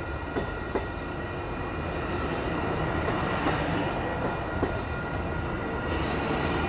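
Amtrak Coast Starlight passenger cars rolling past: a steady rumble of steel wheels on rail with a thin, steady high wheel squeal and a few light clicks.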